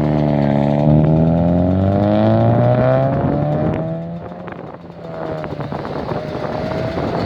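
A car's engine accelerating hard, its pitch climbing steadily for about four seconds, then easing off briefly before building again more slowly. The shifts sound like an automatic transmission.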